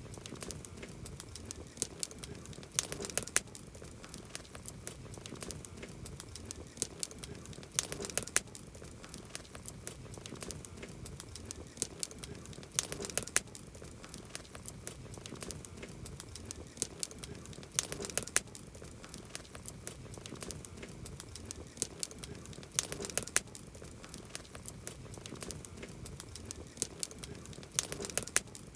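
Wood campfire crackling: a steady run of small sharp pops and snaps over a soft hiss, with a denser cluster of louder pops about every five seconds.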